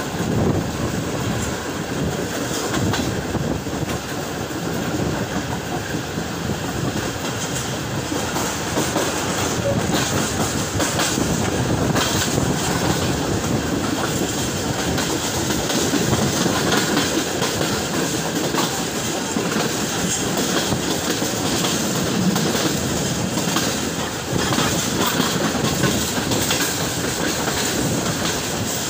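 Passenger train running along the track: a steady rumble of wheels on rail with the repeated clickety-clack of wheels passing over rail joints.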